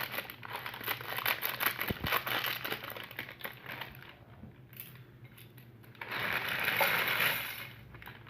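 Plastic wrapper of a Maggi instant-noodle pack crinkling and crackling as it is handled and opened, with a louder rustle for about two seconds near the end.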